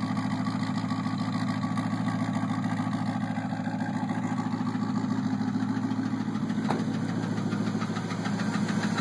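Engine idling steadily with a fast, even ticking running through it.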